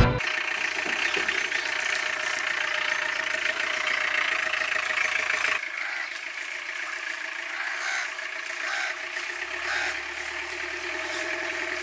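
A motor running steadily. Partway through, the sound cuts abruptly to a quieter steady hum, with a few light clicks near the end.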